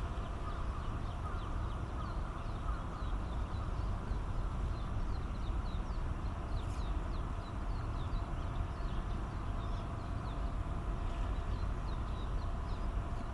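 Little grebe chicks peeping: many short, high chirps following one another several times a second, over a steady low rumble.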